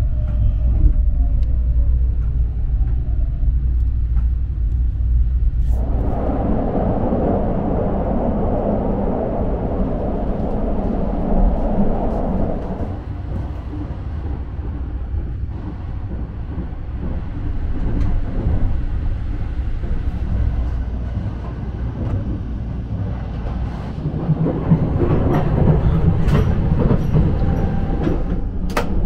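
Inside the Sunrise Express sleeper train, a 285-series electric train: a low steady hum, then about six seconds in a louder, broader running rumble as the train travels. A few sharp metallic clicks near the end come from a door latch being worked.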